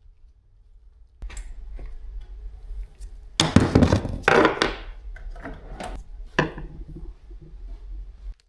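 Handling noise from car door handle parts: a run of knocks, clunks and scrapes starting about a second in, loudest between three and a half and five seconds in.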